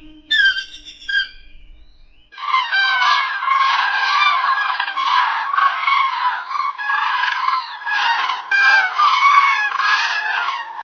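Birds calling: a few short separate calls, then from about two seconds in a dense, continuous chorus of many overlapping calls that cuts off suddenly at the end.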